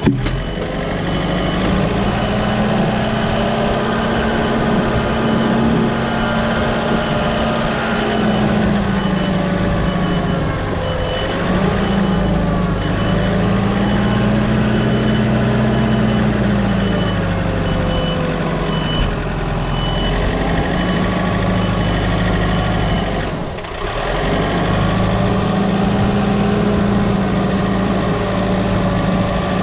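A heavy machine's engine running under working load, its pitch rising and dipping as the load changes and easing briefly near the end. A series of short high beeps sounds over the first half or so.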